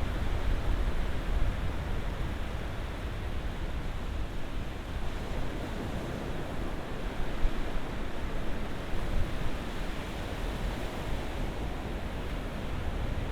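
Ocean surf washing steadily, a constant low rushing of waves with only small swells in level and no single crash standing out.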